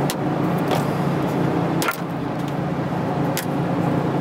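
Buick Electra Estate wagon's engine idling steadily, with a few sharp clicks and snaps as brittle old trim pieces on the lower body are pulled at and broken off by hand.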